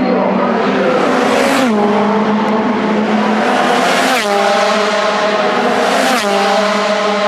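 Three WTCC touring cars with 1.6-litre turbocharged engines pass close by at high speed, one after another, about a second and a half, four and six seconds in. Each engine holds a steady high note that drops sharply in pitch as the car goes by.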